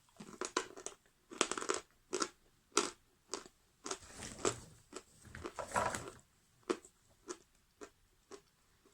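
Pieces of Krasavchik natural edible chalk crunched between the teeth: a dense run of crisp crunches for the first six seconds, then single chewing crunches about once every half second to a second.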